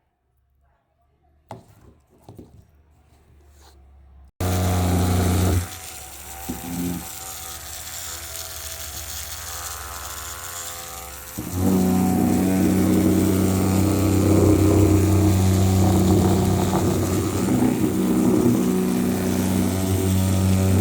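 An electric toy run on a high-voltage supply, giving a loud, steady electrical buzz. The buzz switches on suddenly about four seconds in, drops back after a second or so, and comes back louder around eleven seconds.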